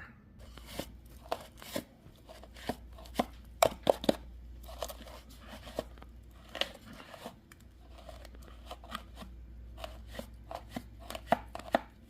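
Irregular clicks, taps and scrapes of hands and tools working at a minibike's air cleaner box, clearing out leaves and dirt, over a low steady hum.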